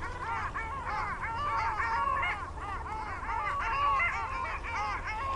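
A flock of geese honking: many short calls, each rising then falling in pitch, overlapping one another without a break.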